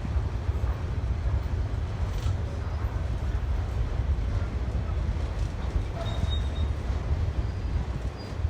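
Freight train rolling past with a steady, heavy low rumble.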